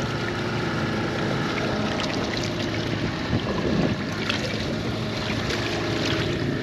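Two-stroke 45 hp Mariner outboard motor idling steadily, with a few short knocks and clicks about two to four seconds in.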